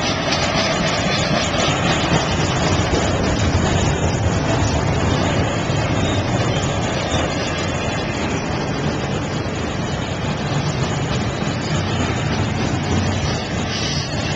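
Double-stack intermodal freight cars of a CSX train rolling past close by: the steady noise of steel wheels running on the rails.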